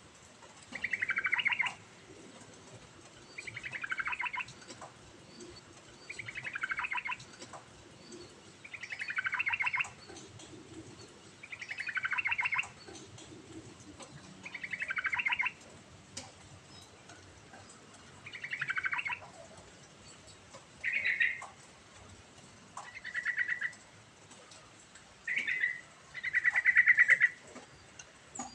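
Yellow-vented bulbul (trucukan) singing, a bird in full song: a rapid, bubbling phrase that falls in pitch, repeated about every three seconds. Over the last third the phrases turn shorter and more varied, held at one pitch.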